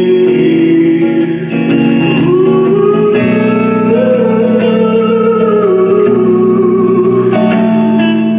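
A band playing an instrumental passage with guitars, a lead line sliding smoothly up and down in pitch over held chords.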